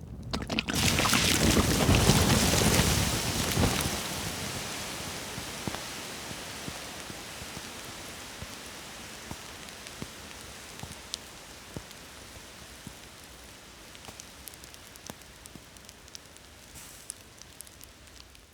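Wood fire burning, with a loud rushing surge for the first few seconds that settles into a steady, quieter crackle with scattered sharp pops, more frequent near the end.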